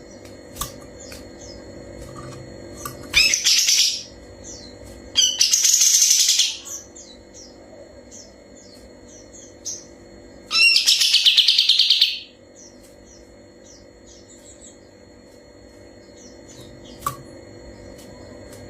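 Kapas tembak songbird singing three loud bursts of fast, high trilling song, each about one to one and a half seconds long, with short chirps in between.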